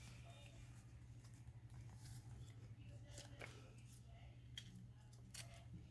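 Faint, scattered snips of scissors trimming paper, a piece cut too wide, over a steady low hum.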